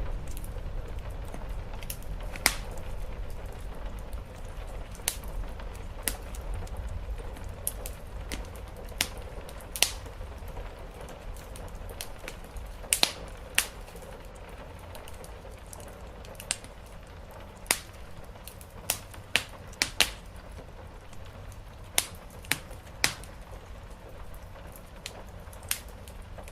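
Wood fire crackling in a fireplace: irregular sharp pops, sometimes two or three close together, over a steady low rumble and a soft hiss of rain on the roof.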